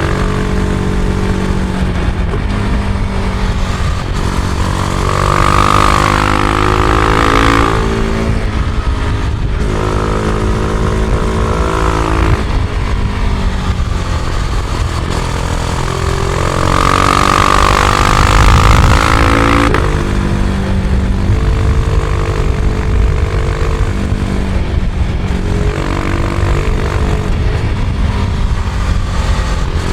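Husqvarna Vitpilen 701's single-cylinder engine under way, revs climbing and dropping again and again as the bike pulls through its gears, over steady wind rush.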